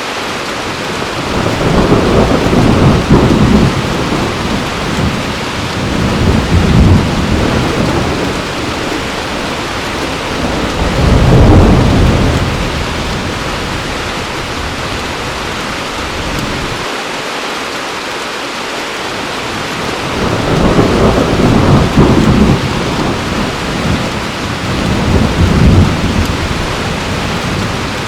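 Heavy rain falling steadily, with rolling thunder. Low rumbles swell and fade several times: a couple of seconds in, around six seconds, most strongly about eleven seconds in, and again from about twenty to twenty-six seconds.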